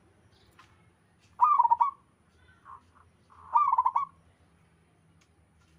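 Zebra dove (perkutut) cooing: two short phrases of quick rolling coos, about two seconds apart.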